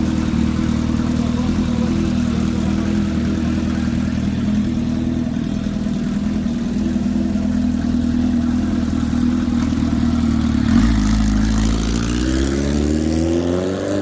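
Kawasaki Ninja H2-family supercharged inline-four motorcycle engine holding a steady high engine note, then from about eleven seconds in its pitch climbs steadily as it accelerates hard.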